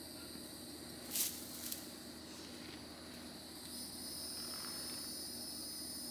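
Insects droning steadily at a high pitch, growing louder about four seconds in. A brief sharp knock comes a little over a second in.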